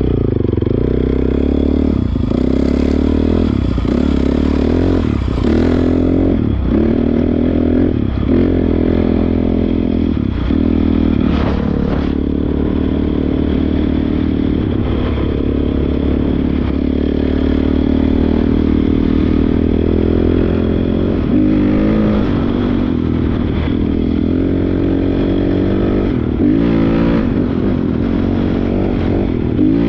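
Honda CRF450R's single-cylinder four-stroke engine running while the dirt bike is ridden, its pitch dropping briefly and climbing again every second or two as the throttle is rolled off and on, steadier in the second half.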